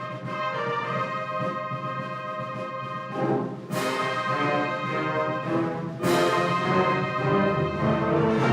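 Wind band playing a brass-led piece, with sustained chords and two sudden crashes across the ensemble, one about three and a half seconds in and another about six seconds in.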